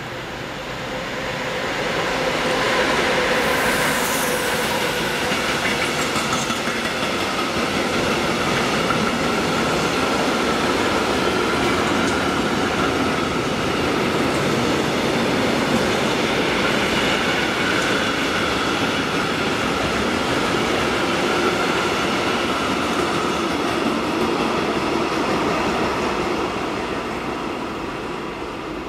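Freight train hauled by an electric locomotive passing close by: the steady rolling rumble and clatter of covered freight wagons, with a thin, steady squeal over it. It builds over the first two or three seconds and fades near the end as the last wagons go by.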